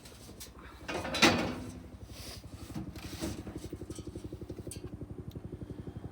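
A small engine running steadily with an even, rapid chugging pulse of about a dozen beats a second. It sets in after a loud clatter about a second in.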